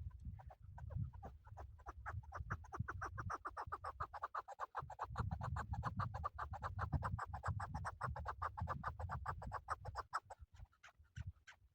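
Male chukar partridge calling: a long run of rapid, repeated clucking notes that swells about two seconds in and trails off near the end, with a low rumble underneath.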